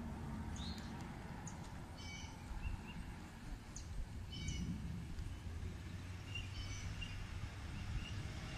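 Birds chirping in short, scattered calls, one of them a quick rising call about half a second in, over a steady low outdoor rumble.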